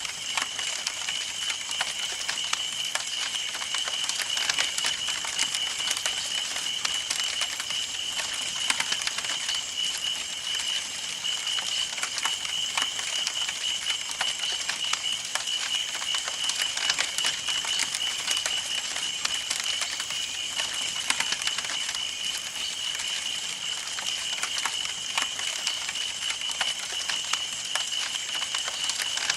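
Campfire burning, wood crackling and popping in a continuous stream of small irregular snaps over a steady hiss, with a steady high-pitched tone running behind it.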